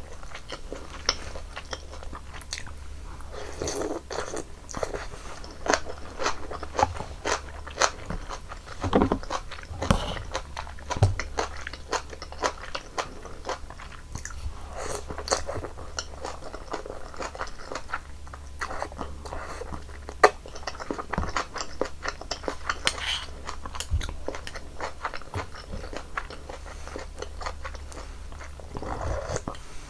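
Close-miked mouth sounds of eating janchi guksu noodle soup: continuous chewing with many sharp wet clicks, broken every few seconds by a longer, noisier sound.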